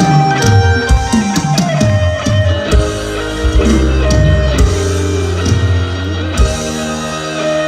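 Instrumental introduction of an Isan mor lam song: guitar melody over bass guitar and drum kit, with regular drum hits.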